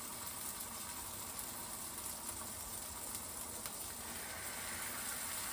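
Homemade corn tortillas dipped in birria broth frying on a hot surface, a steady sizzle.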